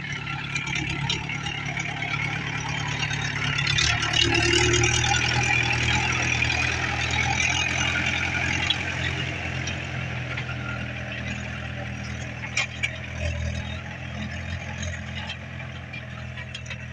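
Tractor's diesel engine running steadily while working the field, loudest about four to six seconds in and then slowly fading.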